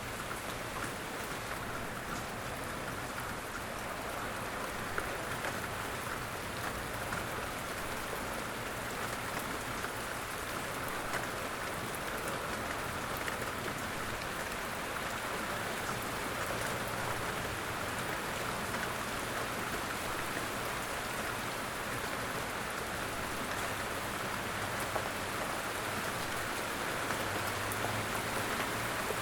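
Steady light rain falling in woodland, pattering on leaves and the ground with scattered individual drops. A low rumble rises near the end.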